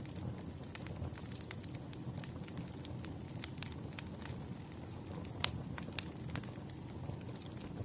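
Burning firewood crackling and popping: a steady low rumble of flames under many irregular sharp snaps, with the loudest pop about five and a half seconds in.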